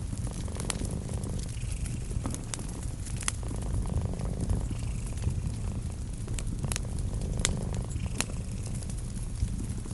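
A cat purring steadily in slow, even waves, with scattered sharp pops and snaps from a crackling fireplace fire.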